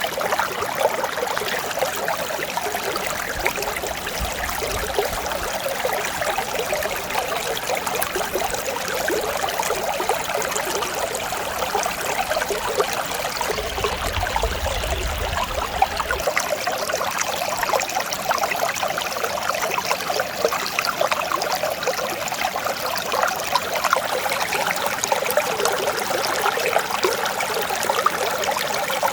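Mountain stream flowing over rocks: a steady rush of water with constant small splashes and burbles.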